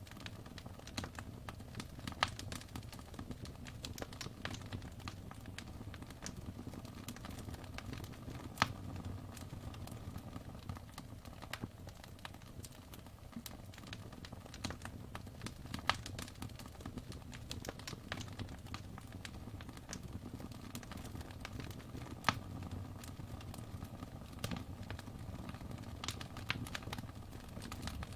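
Wood fire burning in a fireplace, crackling steadily with a low rumble of the flames and a few sharper pops, the loudest about 8 seconds in, again around 16 and 22 seconds.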